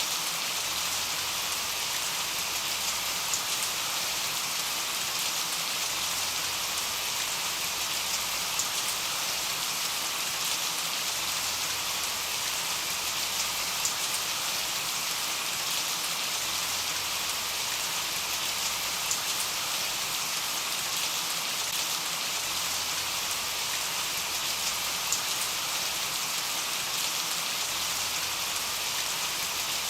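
Steady rain: a dense, even hiss with a scattering of sharper drop ticks here and there.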